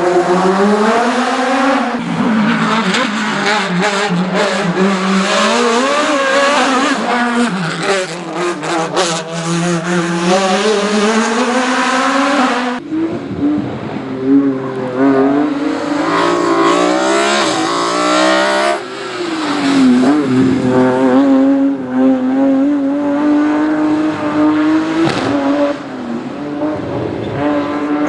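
Hill-climb race car engines revving hard and shifting gear, the pitch repeatedly climbing and dropping as each car accelerates up the course. About 13 s in the sound changes abruptly to another car doing the same.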